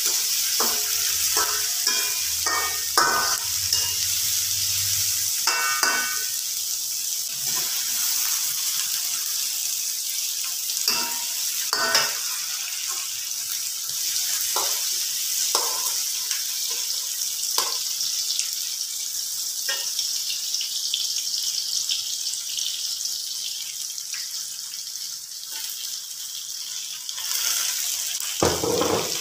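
Sliced onions and tomato sizzling in hot oil in a steel wok, a steady hiss. A perforated metal spatula stirs them, clinking and scraping against the wok every second or so, with a louder knock near the end.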